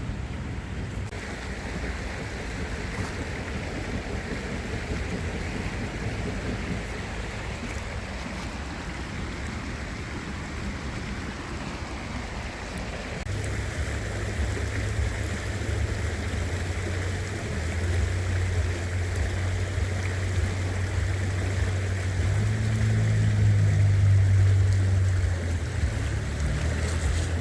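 Steady rush of stream water. From about halfway through, a low rumble of wind buffeting the microphone builds up and grows louder.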